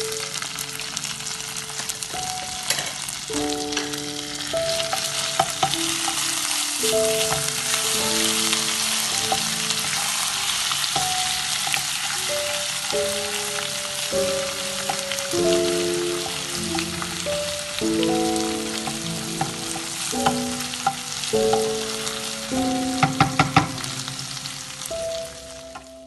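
Ginger-garlic paste and bay leaves sizzling in hot oil in a nonstick frying pan, stirred with a wooden spatula, with a few sharp spatula knocks near the end. The paste is being fried until its raw smell goes. Soft background music plays underneath.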